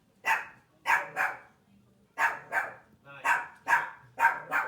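A dog barking repeatedly: about nine sharp barks, many in quick pairs.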